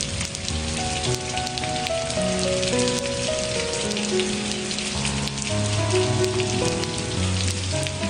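Steady rain falling, a dense even hiss of drops, over soft slow music whose held notes change about once a second.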